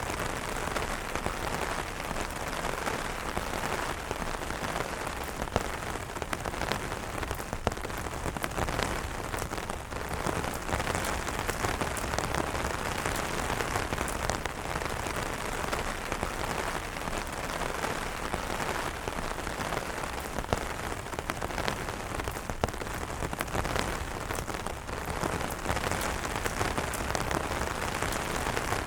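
Steady rain pattering on umbrellas, a dense even hiss of many small drop impacts.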